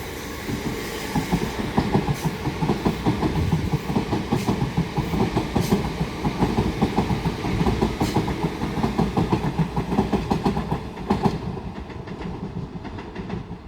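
Southeastern Class 375 Electrostar electric multiple units running through as empty stock, wheels clattering rapidly over the track with a steady rumble. The sound fades over the last couple of seconds as the rear passes.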